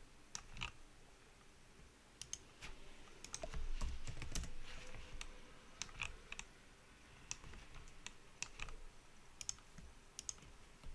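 Computer keyboard keys and clicks tapped in irregular short runs, busiest a few seconds in.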